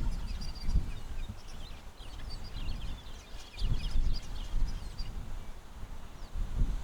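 Several small birds chirping and twittering in quick clusters of short high notes, with gusts of low rumble about a second in, around four seconds in and near the end.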